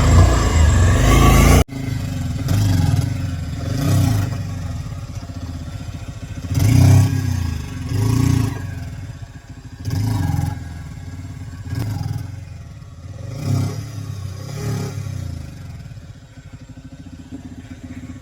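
Bajaj Pulsar 150's single-cylinder engine revving in repeated surges, each rising and falling, as the motorcycle is worked hard through a ploughed field. The sound breaks off suddenly about two seconds in, then the surges come every second or two and fade toward the end.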